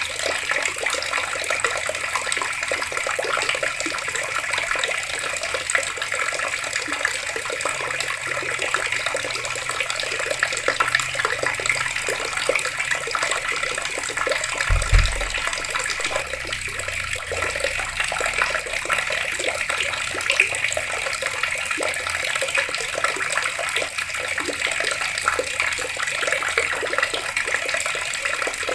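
Water running steadily from taps, a constant splashing hiss. A brief low thump about halfway through.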